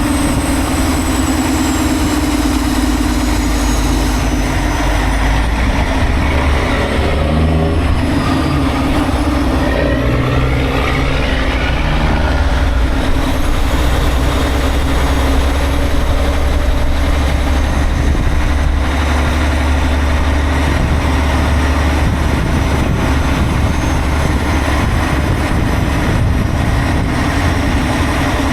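Semi-truck diesel engine running steadily, a loud, even low rumble.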